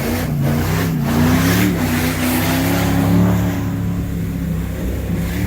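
Mud truck's engine under heavy throttle, its revs rising and falling.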